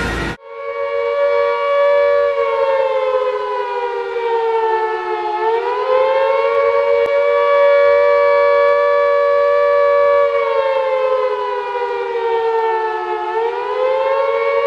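Air-raid siren wailing: a loud, steady tone that starts about half a second in, sags in pitch and rises back twice, around five and thirteen seconds in.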